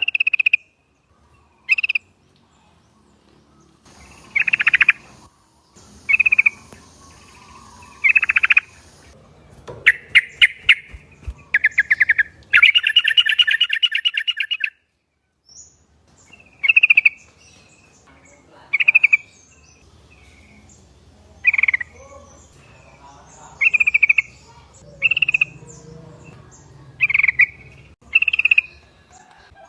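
Yellow-vented bulbul (trucuk) calling: short, bright, chattering phrases every second or two, with a rapid trilling run around the middle. It is played as a lure recording meant to make other bulbuls answer.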